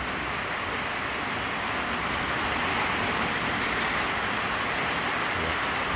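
Steady hiss of rain falling on the wet ground and stall roofs, growing slightly louder about two seconds in.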